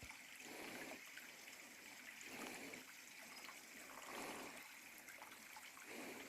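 Faint small creek trickling steadily, with soft swells about every two seconds.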